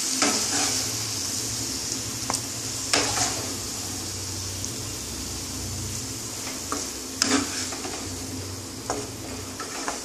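Grated bottle gourd and prawns sizzling steadily in a hot kadai just after the gas is turned off, the sizzle slowly dying down. A wooden spatula scrapes and knocks against the pan about seven times as the food is scooped out.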